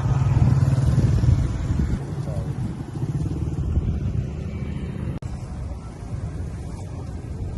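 An engine running steadily at close range, with a low, fast-pulsing rumble and some voices in the background.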